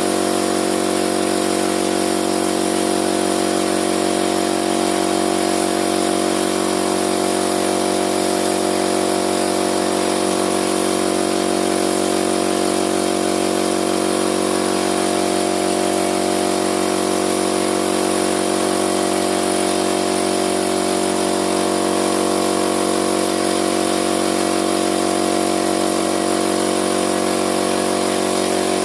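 A motor running at a steady, unchanging speed, giving a constant hum with a hiss over it.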